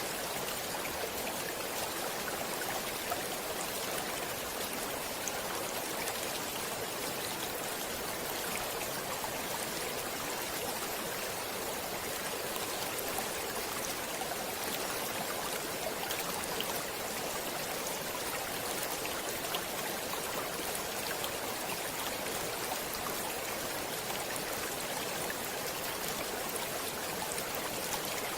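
Stream water flowing and splashing steadily over rocks, a constant rushing hiss with fine droplet splashes and no change in level.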